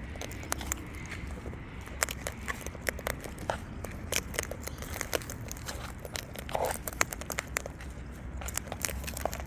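Wild birds feeding at close range: irregular sharp clicks and crackles of pecking and cracking seed, over a steady low rumble. A single short call comes about two-thirds of the way through.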